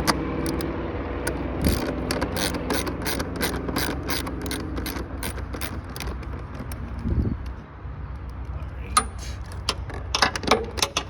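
Ratcheting socket wrench clicking as it loosens a bolt on the air intake, about four clicks a second for a few seconds, then a second, quicker run of clicks near the end.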